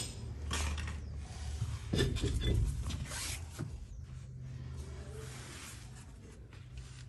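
Taking off a car's rear wheel: a few irregular clunks and scraping sounds from the wheel and tools being handled, growing quieter after about four seconds.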